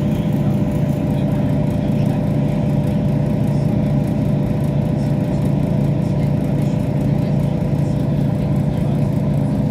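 Passenger train running steadily, heard from inside the carriage: a constant low drone of engine and wheels with a few held tones above it.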